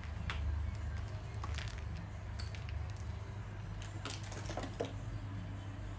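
A few scattered light clicks over a steady low hum.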